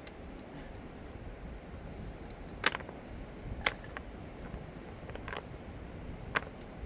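A few sharp knocks over a steady low rumble: the loudest about two and a half seconds in, another a second later and one near the end, with fainter clicks between.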